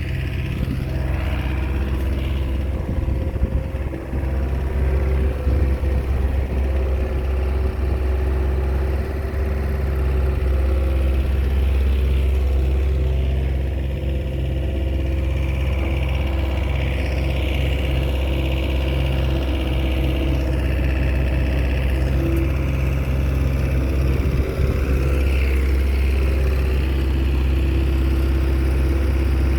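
Small Komatsu crawler bulldozer's diesel engine running steadily, a deep drone with mild rises and dips in engine speed.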